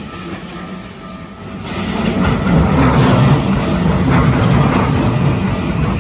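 A Keikyu Line electric train passing over a level crossing. The rumble swells about two seconds in and stays loud.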